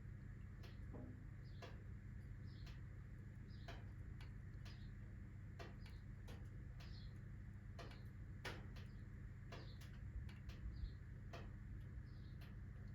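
Wood fire of alder, birch and oak logs crackling: faint, irregular pops about once a second, a few with a brief hiss, and one sharper pop about two thirds of the way through.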